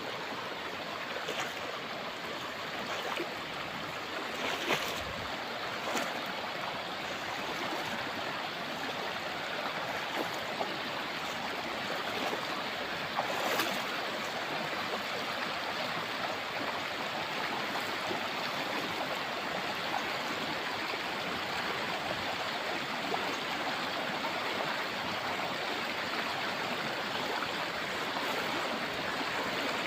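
Shallow, rocky river running steadily, with a few brief knocks over it, the loudest about thirteen seconds in.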